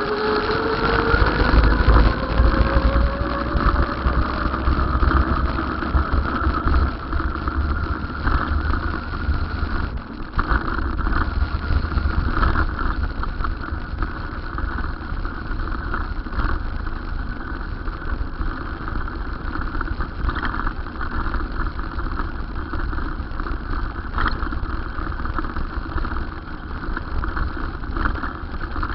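A vehicle running with a steady low rumble, and a whine that rises in pitch over the first two seconds or so.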